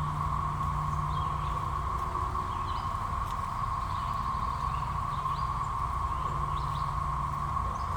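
Dense chorus of periodical cicadas, one unbroken high droning whine, loud because two broods are out at once. A few short bird chirps come through above it, and a low rumble runs underneath.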